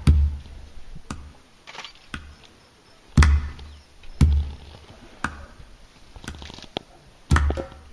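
Soundtrack percussion: heavy drum hits with a deep boom, about one a second, in steady rhythm.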